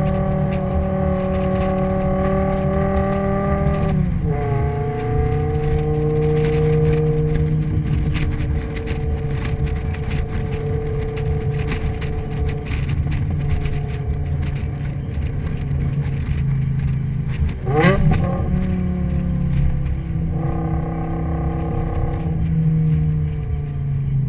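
Car engine running while driving. Its pitch drops at a gear change about four seconds in, there is a quick rev and drop about eighteen seconds in, and it winds down near the end as the car slows.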